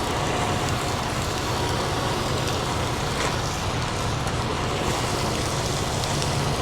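Chicken pieces sizzling steadily in a hot pan, over the steady low hum of an idling engine.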